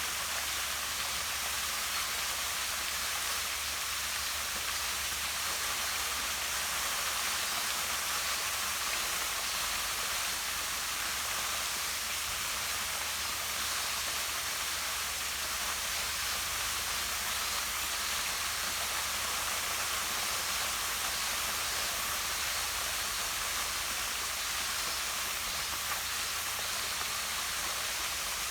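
Small waterfall pouring steadily down rocks into a pond: a constant, even rush of falling water.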